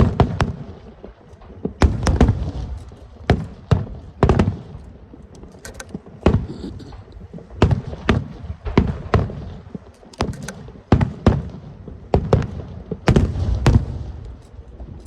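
Aerial fireworks shells bursting in an irregular rapid series of sharp bangs and deep booms, often one to three a second.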